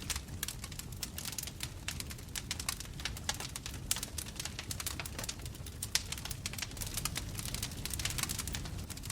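Wood fire burning: a steady low rumble of flames with constant irregular crackling, and a few louder pops, about four and six seconds in.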